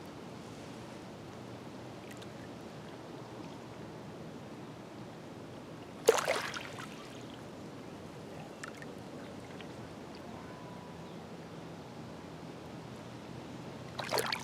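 Small waves of Green Bay lapping steadily against a rocky shoreline, with a sharper splash about six seconds in and a couple more slaps near the end.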